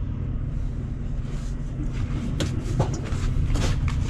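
Semi truck's diesel engine idling steadily, with scattered light clicks and knocks.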